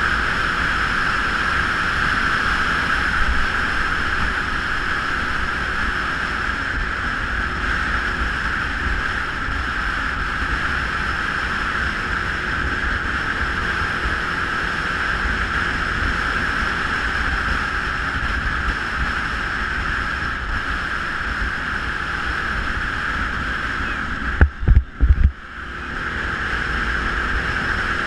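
Geon Scrambler 250 motorcycle under way, its engine running beneath steady wind rushing over the microphone. Near the end come a few heavy low thumps and the sound briefly drops out.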